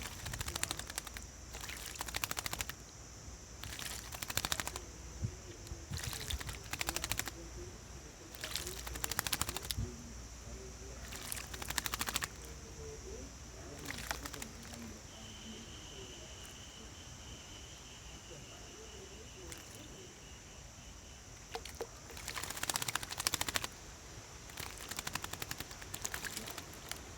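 A small bird bathing: repeated short bursts of splashing and wing-fluttering in shallow water, about ten bursts of half a second to a second each, with a long pause in the middle.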